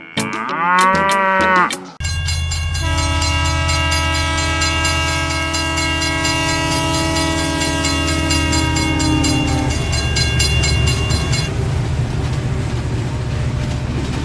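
A cow moos once, then a train starts up: a steady rumbling engine with a fast regular beat and a long horn blast held for about seven seconds.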